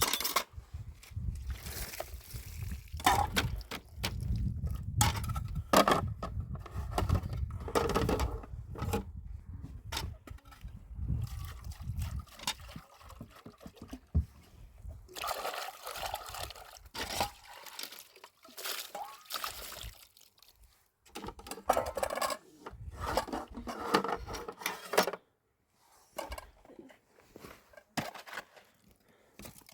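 Water pouring and splashing, mixed with irregular knocks and clatter of objects being handled.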